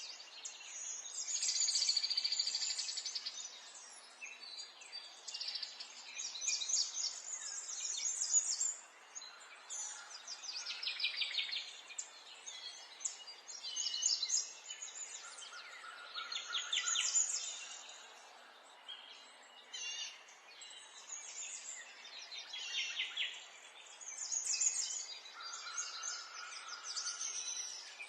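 Small songbirds chirping and singing, several rapid trilling phrases and short chirps coming one after another every second or two, over a faint steady background hiss.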